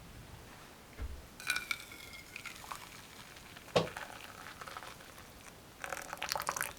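Objects being handled: a dull thump about a second in, a single sharp clink a little later, and a short run of rattling clicks near the end.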